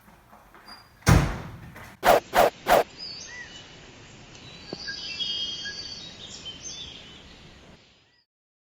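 A heavy thud, then three quick sharp knocks, followed by a few seconds of faint background noise with a few short chirps that cuts out near the end.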